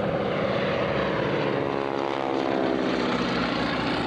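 Boeing Stearman biplane's radial engine and propeller flying past, its steady note sliding down in pitch about halfway through as it goes by.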